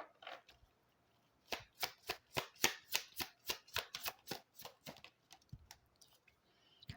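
Tarot cards being shuffled by hand: a run of quick, even slaps of card on card, about four a second, that starts a second and a half in and thins out about five seconds in.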